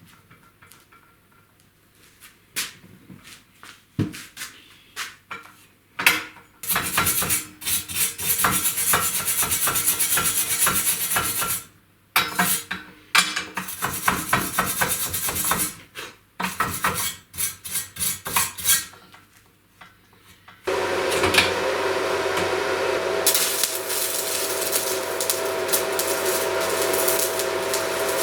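Stick (electrode) arc welding over cracks in an office chair's steel mount: sporadic clicks as the arc is struck, then several runs of harsh crackling with short pauses, and a longer steady run with a faint whine in the last third.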